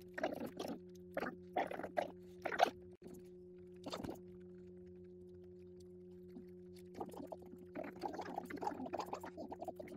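A person chewing pizza close to the microphone: wet mouth smacks and crunches in short bursts, a flurry at first, one about four seconds in and a busier run near the end, over a steady low hum.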